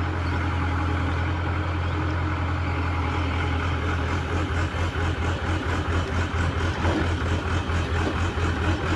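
Heavy diesel engine of an earthmoving machine running steadily at low revs; from about halfway through it takes on a regular throb a few times a second.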